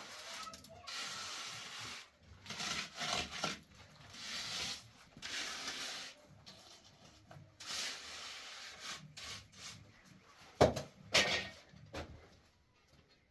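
Repeated rough scraping strokes, each about a second long, like a tool dragged over a hard surface, followed by two or three sharp knocks near the end.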